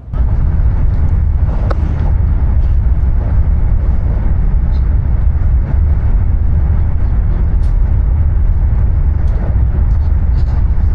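Loud, steady low rumble of a high-speed train in motion, starting abruptly, with faint scattered ticks over it.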